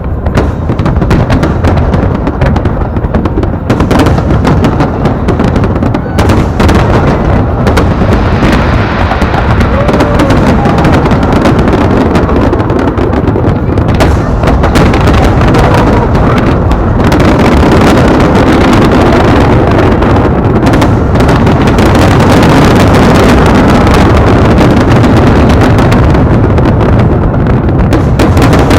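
Large fireworks display: a dense, continuous barrage of shell bursts, booms and crackles. It grows louder in the second half.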